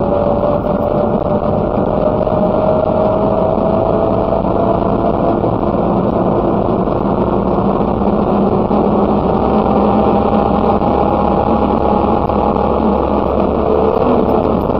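Messerschmitt KR200 bubble car's single-cylinder two-stroke engine running at speed on the road, with tyre and wind noise. Its note rises slowly over the first few seconds, holds higher, then drops briefly near the end before climbing again.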